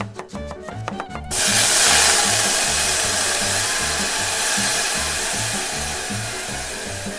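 Loud sizzling of food dropped into a hot oiled frying pan, starting suddenly about a second in and slowly dying down, over background music with a steady beat.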